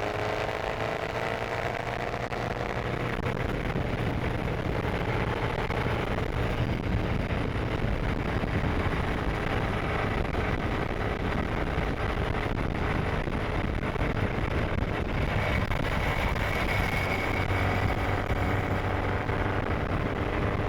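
Supercharged 1328 cc MG XPAG four-cylinder engine of a 1938 MG TA Special running on the road. Its pitch climbs over the first two seconds, then holds fairly steady.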